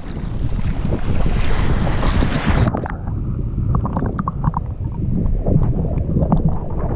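Wind buffeting the microphone over sea water and surf. The higher hiss cuts off abruptly about three seconds in, and the low rumble carries on.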